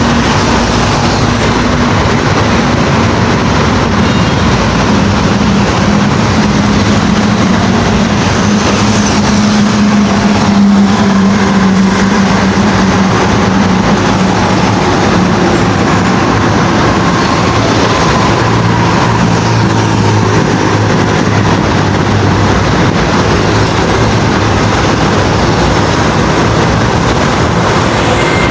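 Heavy diesel trucks driving past on a road: a loud, steady rush of engine and tyre noise, with an engine hum that slowly drops in pitch partway through.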